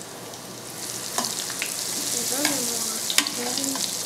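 A breaded chicken cutlet going into hot olive oil in a stainless sauté pan: the oil sizzles, growing louder about a second in as the cutlet settles into it. A few sharp clicks of the tongs against the pan come through the sizzle.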